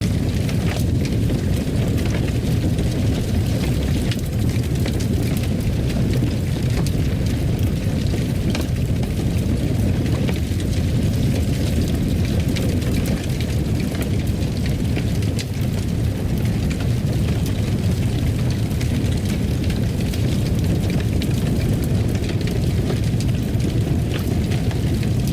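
Fireplace fire burning: a steady low rumble of flames with faint crackles and pops.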